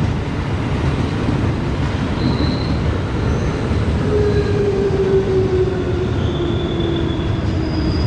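Electric commuter train running alongside the platform: a steady loud rumble, with a whine that slowly falls in pitch from about four seconds in and a few brief high wheel squeals.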